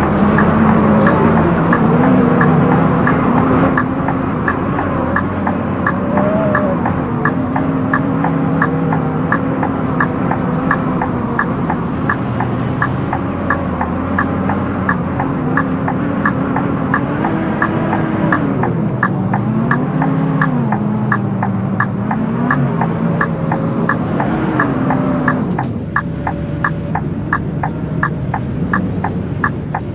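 Onboard sound of a Scania K230UB city bus in motion: its engine pitch rises and falls as the bus speeds up and slows. A steady rapid clicking, about two to three ticks a second, runs through it. Near the end the engine drops back to a quieter, steadier note.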